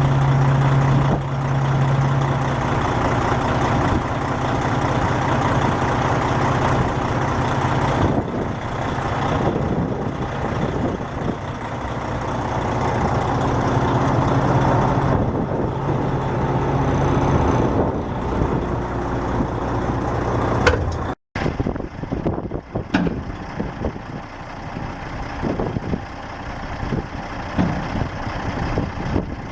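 Heavy dump truck engine running steadily, with a strong low hum in the first couple of seconds. The sound breaks off abruptly about two-thirds of the way through and resumes with a different character, as at an edit.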